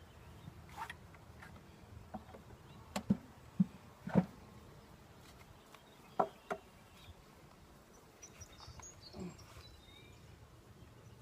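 Wooden beehive frames knocking and clicking several times as they are lifted out and swapped, over a steady low hum of honeybees.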